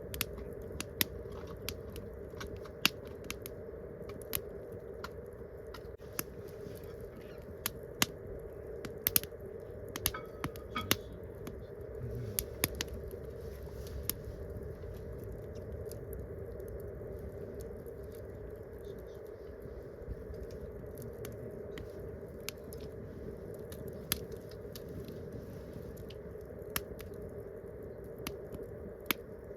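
Wood campfire crackling, with sharp, irregular pops several times a second over a steady background noise.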